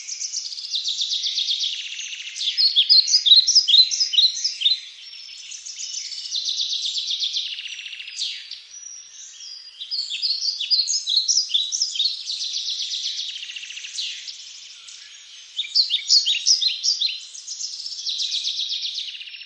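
Songbirds singing in a forest. Fast, even trills alternate with clusters of sharp, quick falling chirps, and the chirps come back every few seconds louder than the trills.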